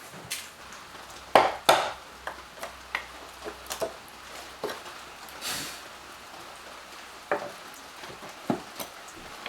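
Scattered wooden knocks and clicks of a workpiece and hand tools being handled, with two loud knocks in quick succession about a second and a half in and a short scraping hiss in the middle.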